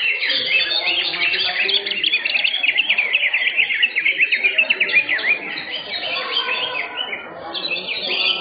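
Many caged greater green leafbirds (cucak hijau) singing at once, a dense chorus of rapid overlapping chirps and whistles that thins briefly near the end.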